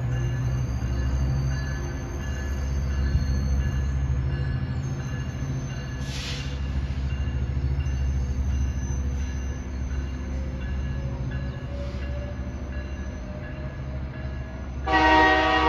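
Bilevel commuter train pulling away, a steady low rumble with a brief hiss about six seconds in. A loud train horn starts near the end.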